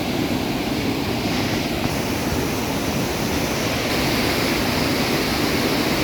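Loud steady rush of fast-flowing white water, a mountain river or waterfall, with no let-up; the upper hiss brightens a little about four seconds in.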